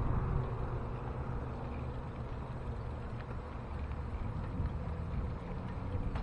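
Wind buffeting the microphone of a camera on a moving bicycle, a steady low rumble.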